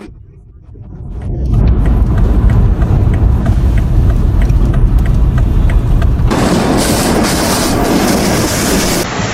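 Storm wind buffeting the microphone: a loud, low rumble that swells in over the first second or two. About six seconds in it changes abruptly to a harsher, hissing rush.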